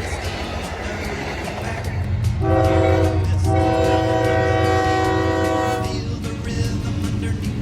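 Amtrak P42DC locomotive's air horn sounding a chord: a short blast about two and a half seconds in, then a long blast of about two and a half seconds, over the steady low rumble of the train.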